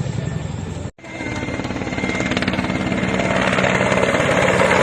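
A helicopter's rotor beating rapidly, growing steadily louder as it approaches. A brief cut to silence comes about a second in.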